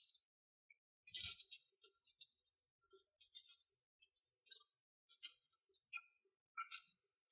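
Slime and putty containers being handled and opened: a string of short, sharp plastic clicks and crackles in clusters, with a soft thump about a second in.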